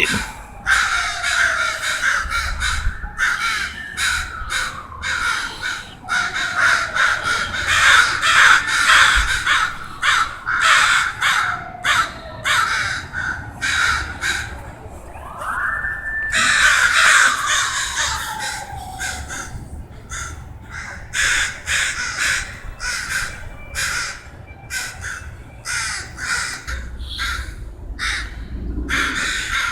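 Harsh, caw-like bird calls repeated over and over through the whole stretch, many in quick succession, with a few slower falling glides among them.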